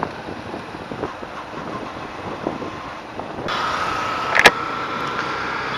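Road vehicle noise with wind buffeting the microphone. About three and a half seconds in, the sound changes abruptly to a louder, steady hiss carrying a thin high tone. A sharp click, the loudest sound, comes about a second later.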